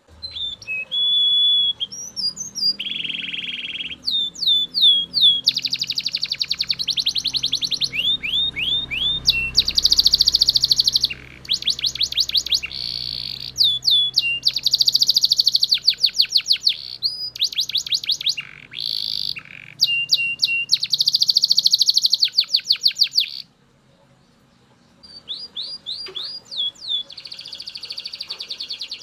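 Belgian canary singing a loud, continuous song of rapid rolling trills and quick falling whistled notes, phrase after phrase. The song breaks off briefly near the end, then starts again.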